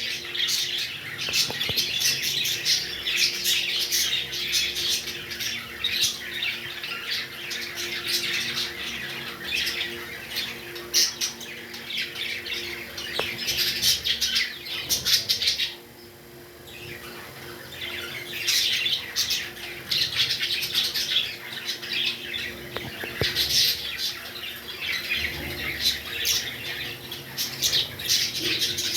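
Pet parrots chattering and squawking nonstop in rapid, shrill calls. The calls drop off briefly about halfway through, then pick up again.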